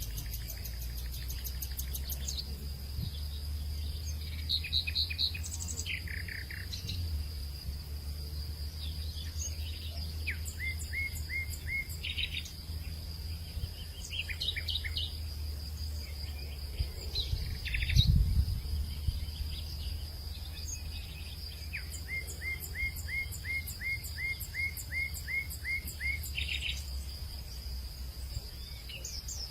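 Outdoor hillside ambience: several birds chirping and calling, including runs of quick repeated rising notes, over a steady high-pitched insect drone and a low rumble of wind. The rumble swells briefly about 18 seconds in.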